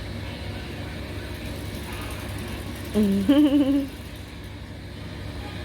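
Steady low background hum. About three seconds in, a voice gives a short wavering, humming sound that lasts just under a second.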